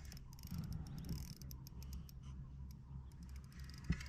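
A fishing reel clicking with quick, irregular ticks while a grunter is being fought and brought in, over a low steady hum.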